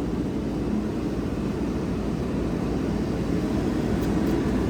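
Steady low rumble of fire apparatus engines running on the fire ground, even in level throughout.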